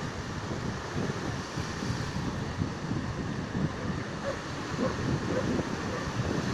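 Wind buffeting the microphone over the steady wash of sea surf on a beach.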